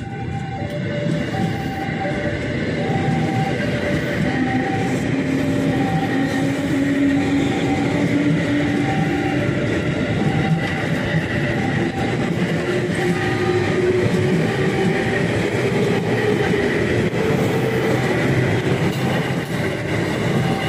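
Electric commuter train pulling out and passing close, wheels rumbling on the rails, with a motor whine that rises steadily in pitch as it gathers speed. Throughout, a level-crossing warning alarm repeats two alternating notes, high then low, about once a second.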